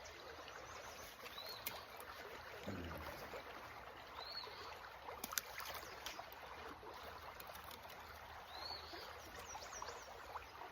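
Small creek water trickling steadily, with a few short bird chirps and several brief sharp clicks.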